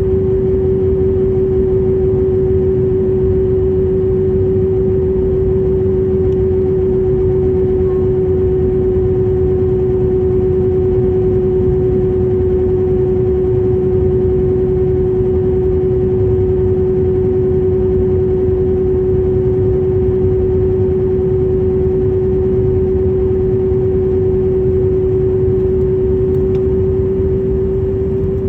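Boeing 737 engine drone heard inside the cabin: a steady hum on one constant tone over a broad low rumble, easing off slightly near the end.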